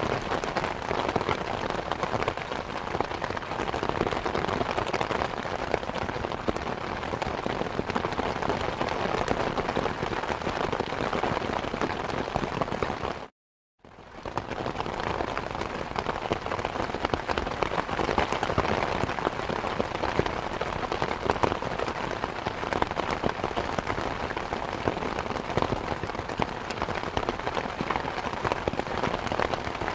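Steady, dense rain falling and pattering on surfaces. About halfway through, it cuts out to silence for about half a second, then fades back in.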